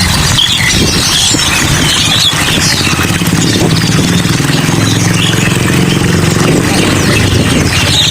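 Many caged songbirds chirping and squealing together, as at a bird shop, over a steady hiss. The low hum of an engine running runs underneath.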